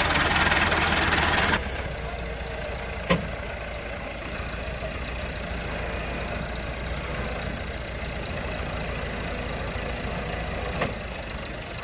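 Tractor engine running, louder and harsher for the first second and a half, then settling to a steady idle. Two sharp clicks, about three seconds in and near the end.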